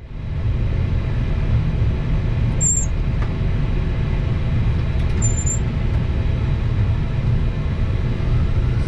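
Steady low rumble of noise inside an Airbus A321 cockpit, with two short high-pitched beeps about two and a half seconds apart.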